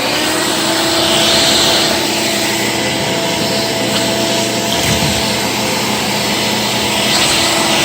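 Electrolux Special Edition upright vacuum running with its hose attached. The motor whine climbs briefly just after switch-on, then holds a steady pitch over the loud rush of air.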